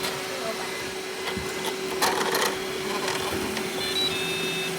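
Robot vacuum cleaner running with a steady motor hum and brush whir, with a few light clicks and a louder scraping patch about two seconds in. A few short high electronic tones sound near the end.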